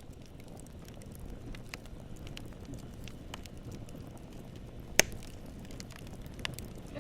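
Campfire burning: a steady low rumble of flames with scattered small crackles, and one loud sharp pop about five seconds in.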